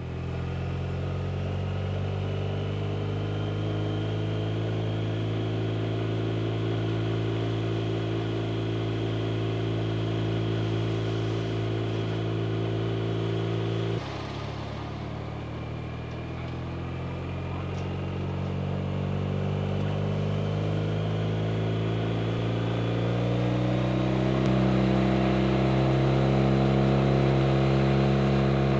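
BMW R 1250 RT's boxer twin engine running under way. The note holds nearly steady, drops suddenly about halfway through, then climbs gradually and grows louder toward the end.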